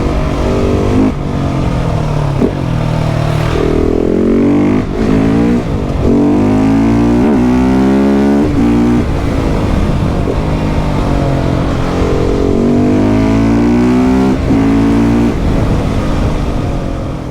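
KTM 690 SMC R's single-cylinder engine with a Leo Vince exhaust, under hard acceleration through the gears. Its pitch rises with each pull and drops back at each gear change, several times over.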